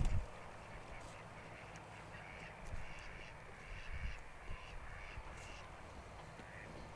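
Faint harsh bird calls, repeated in short bursts through the middle, over a low wind rumble that knocks on the microphone at the very start.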